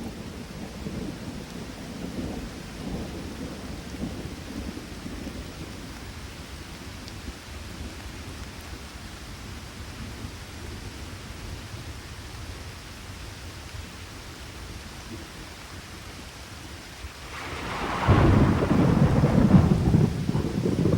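Thunderstorm with rain: low rolling thunder rumbles under steady rain. Near the end a loud thunderclap breaks in suddenly and rumbles on heavily.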